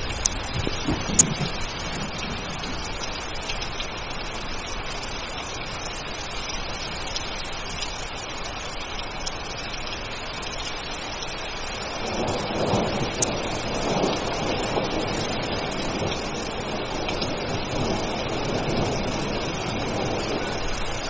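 Steady rain hissing down, with the tail of a thunder rumble dying away at the start and a sharp click about a second in. From about halfway through, a louder, wavering rumble of distant thunder swells and keeps rolling.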